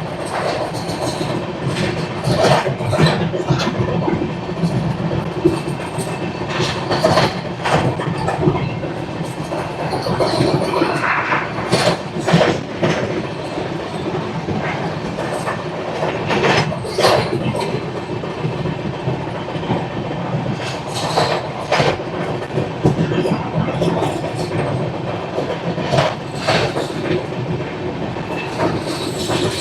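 Express passenger train running along the line: a steady rumble from the coach, broken by sharp clacks of the wheels over the rails every few seconds.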